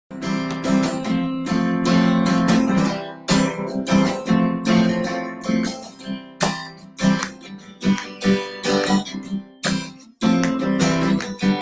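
Acoustic guitar strummed in a steady rhythm, ringing chords at first and then shorter separate strokes.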